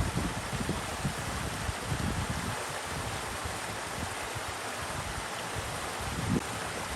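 Steady rushing of flowing stream water, with irregular low rumbles under it.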